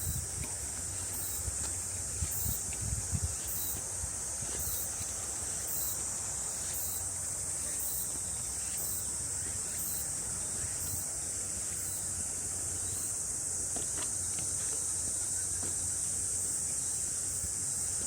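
A summer chorus of cicadas droning steadily at a high pitch in the forest, with a fainter high chirp pulsing about once a second above it. Soft low thumps of the walker's footsteps are heard in the first few seconds.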